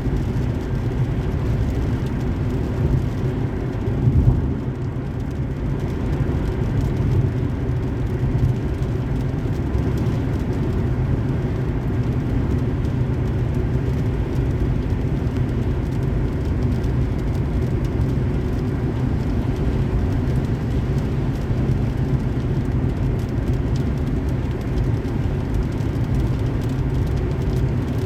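Car driving on a highway: a steady low rumble of road and engine noise, with a brief louder bump about four seconds in.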